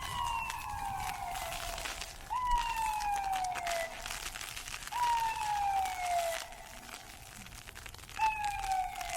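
Emergency-vehicle siren wailing: a tone that jumps up and then slides down in pitch, four times, about every two and a half to three seconds. Underneath, footsteps crunching on ice pellets.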